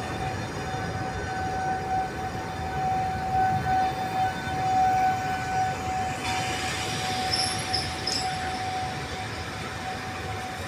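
A train running on the heritage railway line, with a low rumble and a steady high-pitched tone held throughout. A hiss joins about six seconds in.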